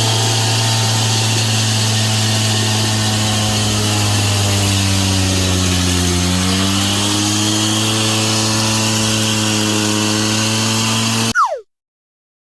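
Power saw cutting through a wall to enlarge a window opening, its motor running steadily under load. The pitch sags and recovers around the middle. The sound stops abruptly near the end with a brief falling whine.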